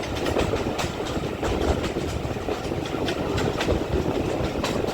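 Passenger train hauled by GWR Manor-class steam locomotive 7828 Odney Manor, running along the track. A steady rumble with irregular clicks and clatter of the wheels over the rails.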